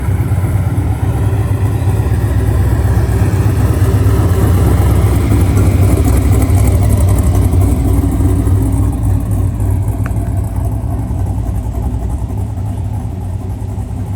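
A truck engine running close by with a deep, steady note. It swells over the first few seconds and eases off gradually toward the end.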